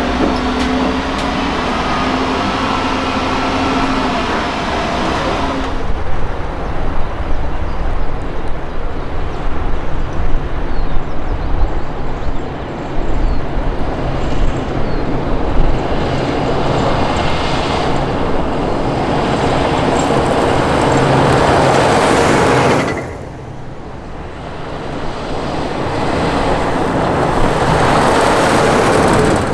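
Military trucks running and driving by in several cut-together clips. A steady engine hum with a held tone gives way abruptly to rumbling road noise that swells as a truck approaches, breaks off suddenly about two-thirds through, then builds again.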